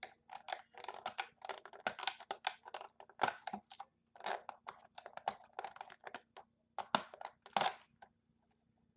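Sticky tape being peeled and torn off a cardboard toy box, with the packaging crinkling and scraping as the box is worked open. It comes in quick irregular bursts of crackling that stop about a second before the end.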